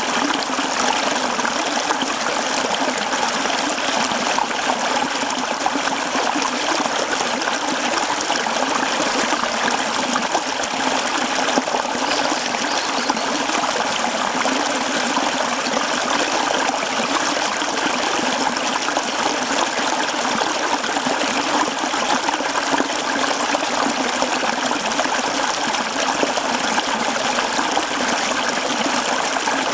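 Mountain stream running over rocks: a steady rush and babble of flowing water.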